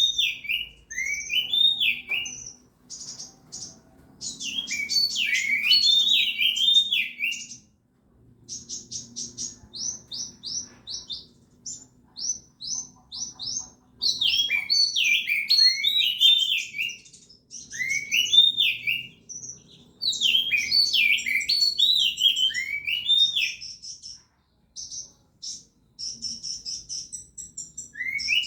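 Oriental magpie-robin (kacer) singing vigorously in repeated bouts: rising-and-falling whistled phrases mixed with fast, high chattering runs, with short pauses between bouts. It is a caged songbird in full song, in form for a song contest.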